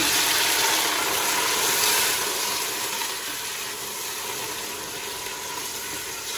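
A splash of water hitting chopped onions frying in hot oil, setting off a loud sizzling hiss that slowly dies down to a softer, steady sizzle.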